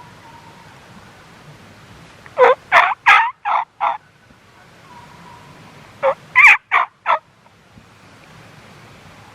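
Turkey yelping: two loud series of yelps, five notes and then four, each note breaking from low to high in pitch.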